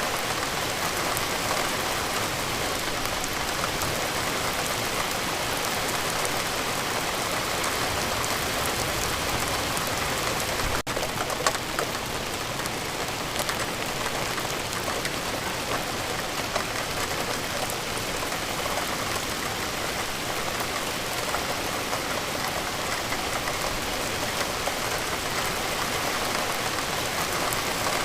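Steady rain falling, a dense even hiss with many small drop ticks, and a brief dropout about eleven seconds in.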